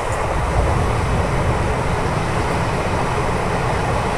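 Express passenger train running at speed, heard from an open coach door: a steady rush of wind and wheel-on-rail rumble.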